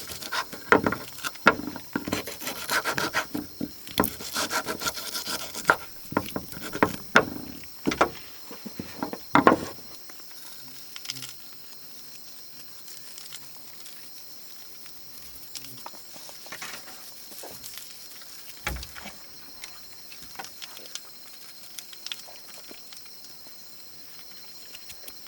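Wood being handled: a quick run of knocks, clacks and scraping for about the first ten seconds, then only scattered clicks over a faint steady high hiss.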